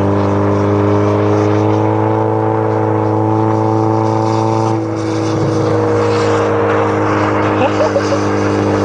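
Honda Civic engine running hard at steady high revs while towing a sled across lake ice, with a hiss of wind and tyres. About five seconds in the engine note changes and the level dips briefly, then holds steady again.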